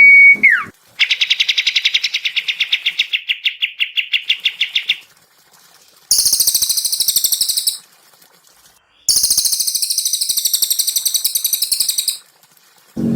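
Recorded songbird calls. A held whistle ends in a quick falling slur, then a rapid pulsed trill runs for about four seconds, followed by two high, buzzy rattling trills of a couple of seconds and about three seconds. Between the phrases there are clean, dead-silent gaps.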